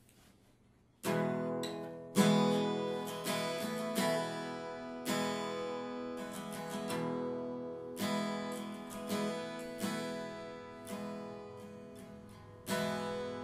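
Solo acoustic guitar playing the song's introduction: it comes in about a second in with ringing chords struck every second or two, each left to sustain.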